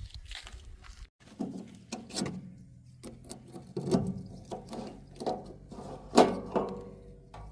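Backhoe loader at work: the engine runs steadily under irregular metallic clanks and knocks, the loudest about six seconds in. The sound cuts out briefly about a second in.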